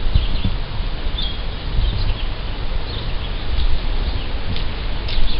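Outdoor background: short bird chirps now and then over a steady low rumble and hiss.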